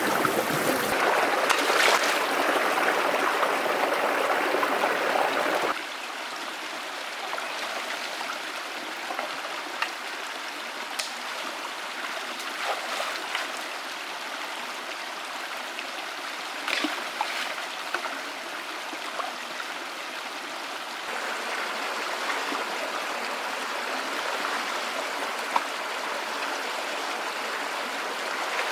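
Forest stream flowing, a steady rush of water; louder for the first six seconds, then softer, with a few small clicks and knocks.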